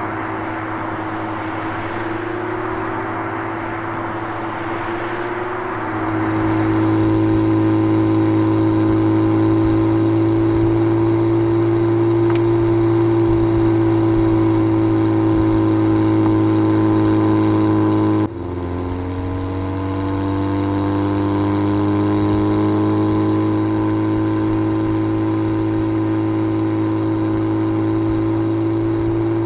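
Porsche Panamera 4 e-Hybrid's twin-turbo V6 engine and exhaust running at a steady speed with an even drone. It grows louder about six seconds in, dips briefly about two-thirds of the way through, then climbs slightly in pitch.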